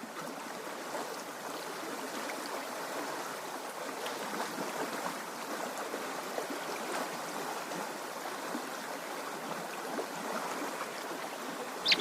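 Water running in a small stream: a steady, even wash with faint trickling ticks through it.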